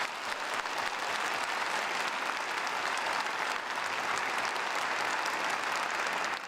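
An audience applauding: dense, steady clapping that eases off at the very end.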